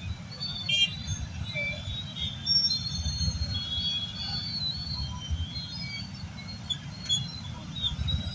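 Low, steady rumble of a train at a railway platform, with scattered short high-pitched tones and a brief click about a second in.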